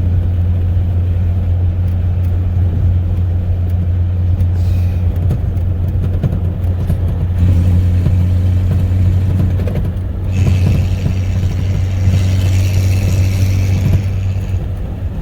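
Ford 4.9-litre straight-six of a 1995 F-150, straight-piped through 2.5-inch pipe, running at a steady highway cruise and heard from inside the cab as a deep, even exhaust rumble, likened to a non-turbo 12-valve Cummins. About ten seconds in a higher hiss of wind and road noise joins it.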